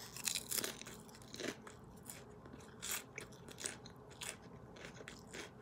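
Crunching and chewing of a mouthful of crisp lettuce salad: a string of short, irregular crunches.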